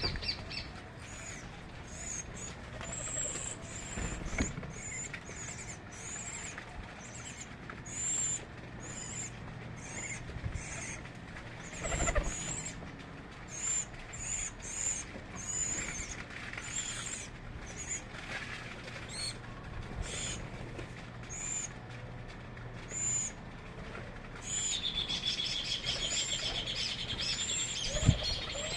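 Small birds calling: short high chirps repeated about once a second, and near the end a rapid continuous trill. A few dull knocks sound among the calls.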